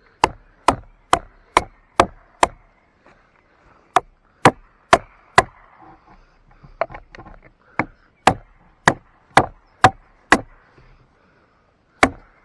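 A wooden baton hammering the spine of a knife to split a tough log: three runs of four to six sharp wooden blows at about two a second, with short pauses between them.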